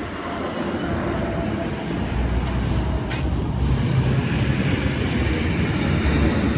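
Heavy truck engine running with a steady low rumble that grows louder about two seconds in.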